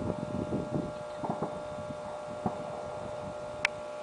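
Fireworks going off at a distance: scattered low pops and thumps, densest in the first second and a half, with one sharp crack near the end, over a steady hum.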